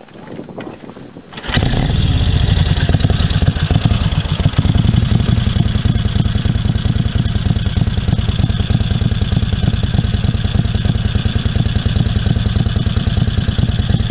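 Brough Superior SS100's JAP V-twin engine starting about a second and a half in, then running steadily with a rapid, even firing beat.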